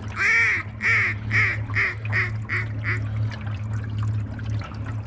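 Duck quacking: a run of about eight quacks, half a second apart and each fainter than the last, over a steady low hum.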